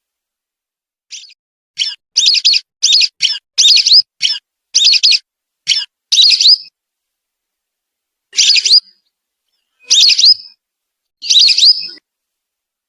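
Whistling duck (belibis) calls from a lure recording: a quick series of short, high whistled notes, then after a pause three longer rising calls about a second and a half apart.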